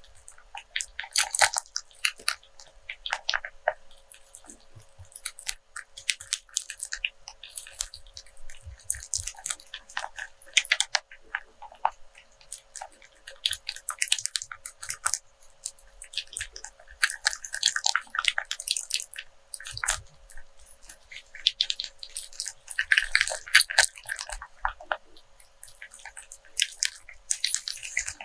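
A rope scratched and rubbed close to the microphone, its fibres giving irregular crackling and scratching in short bursts.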